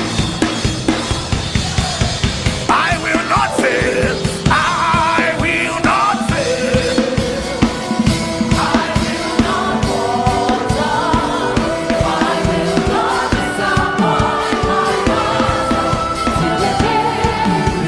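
Live gospel worship music: a drum kit keeping a steady beat under sustained chords, with voices singing over it from a few seconds in.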